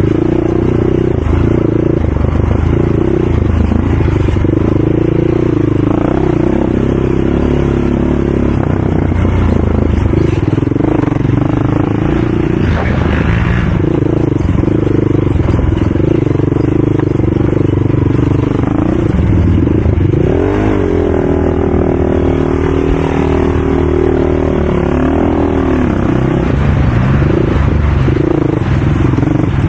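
ATV engine running hard under throttle, the throttle dropping off and picking back up every few seconds. Its pitch glides up and down for a few seconds about twenty seconds in.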